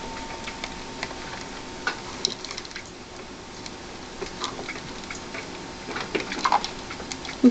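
Pet rats moving about their cage: scattered small clicks, taps and scratches over a faint steady hiss.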